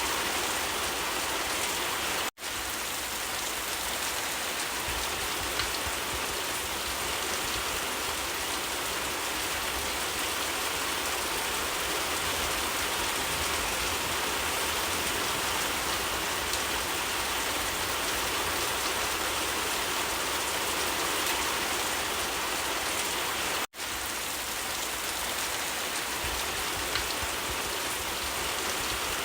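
Steady rain falling, an even hiss of rain on surfaces. It cuts out for an instant twice, about two seconds in and again some twenty seconds later.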